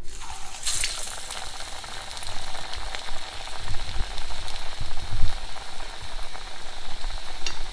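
A parippu vada (dal fritter) dropped into hot coconut oil and deep-frying. The oil starts sizzling abruptly as the patty goes in, flares briefly just under a second in, then keeps up a steady crackling sizzle.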